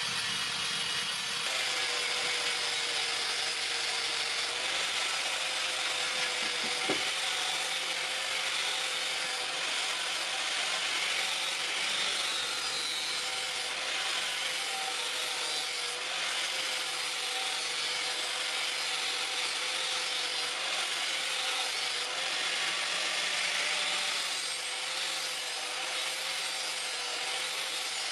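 A powered grinder running steadily with a continuous rasp of metal being ground, over a constant motor hum: a hasua (sickle) blade being ground and shaped.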